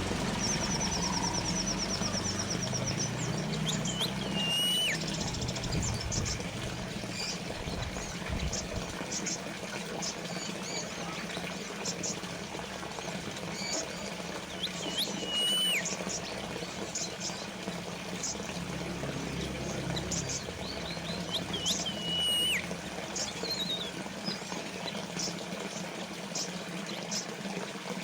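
Small water fountain trickling and splashing steadily, with birds chirping over it: a few short calls that slide down in pitch, a quick high trill near the start, and scattered high chirps.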